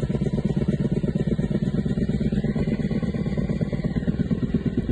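Helicopter nearby, its rotor beating with a fast, even pulse over the steady run of its engine.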